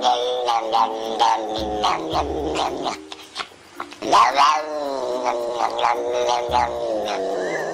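Tortoiseshell cat yowling in long, wavering, word-like calls that sound like "na nei na", "hobbit" and "nom nom". The calls pause briefly about three seconds in, then resume with a loud sweeping yowl.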